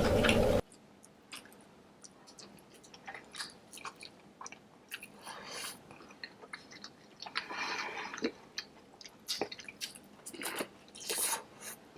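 Close-miked eating of saucy deshelled seafood: scattered soft, wet chewing, lip smacks and squishes, with an occasional crunchy bite. A louder, voice-like sound cuts off abruptly about half a second in.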